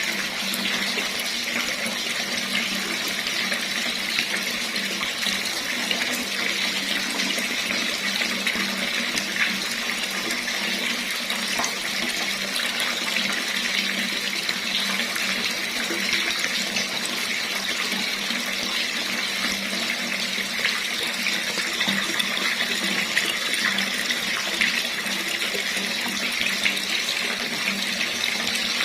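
Water running steadily from a tap in an unbroken stream, splashing into a sink or basin below.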